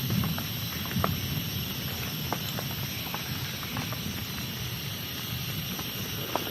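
Steady rain hiss with scattered individual drops ticking on a surface.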